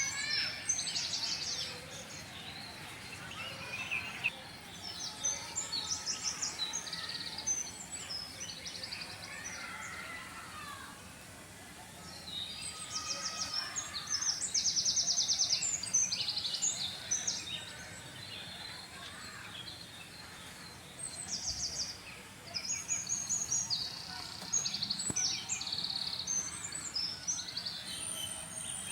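Several small birds chirping and trilling, with many short high calls and quick runs of repeated notes, busiest about halfway through, over steady outdoor background noise.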